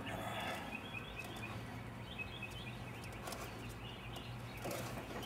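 Small birds chirping in short high calls about a second in and again around three seconds, over a steady low hum, with a few faint clicks.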